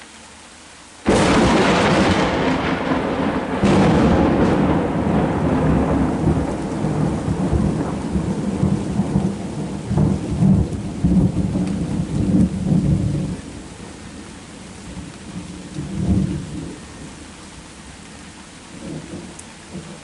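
Steady heavy rain, then about a second in a sudden loud thunderclap from a lightning strike. A second crack follows soon after, and a long rolling rumble dies down about two-thirds of the way through. Fainter rumbles come later over the rain.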